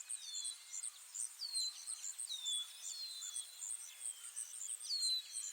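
Small forest birds calling: a high thin whistle that slides downward, repeated every second or so, over a steady run of very high short chirps.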